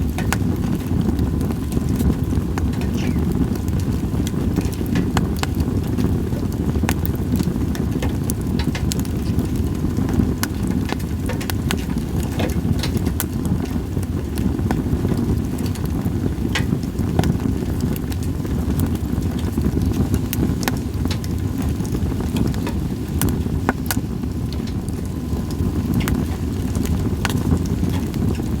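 Campfire of split sawtooth oak (kunugi) firewood burning, crackling with scattered sharp pops, several a second, over a steady low rumble.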